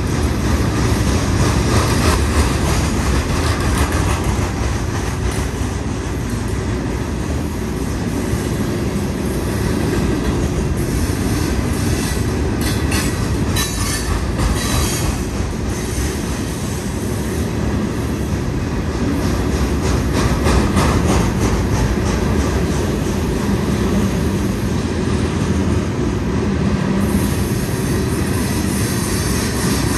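Freight cars of a long stone train rolling past at speed: a steady rumble and rattle of steel wheels on the rails, with a cluster of sharp clicks over the rail about halfway through.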